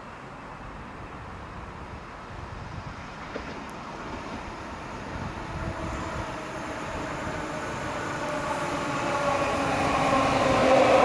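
SL X60 electric commuter train approaching, growing steadily louder, with the electric whine of its traction drive coming in from about halfway as several steady tones over the rising rumble.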